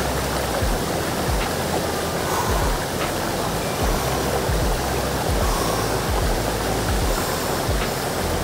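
Rushing mountain stream: a steady noise of fast water pouring over rocks.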